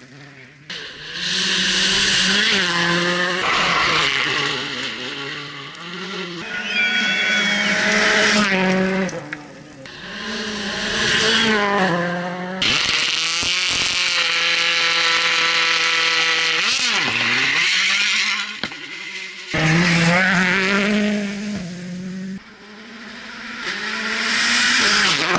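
Rally car engines at full throttle: the engine note climbs and drops repeatedly and holds a steady high rev for a few seconds in the middle. The sound changes abruptly several times.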